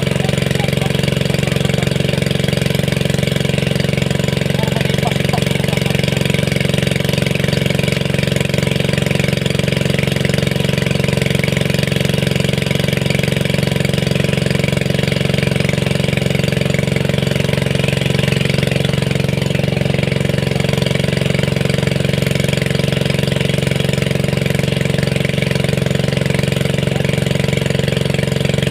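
Small engine running steadily at a constant speed, with an even, unchanging hum.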